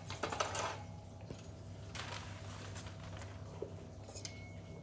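Scattered faint clicks and light clinks of small objects being handled, over a steady low hum.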